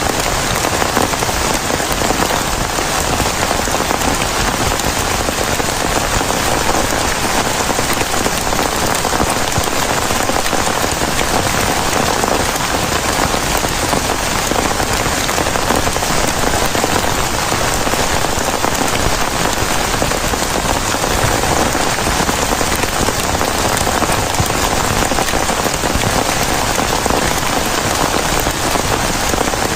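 Heavy rain falling steadily, a dense even patter with no breaks or thunder claps.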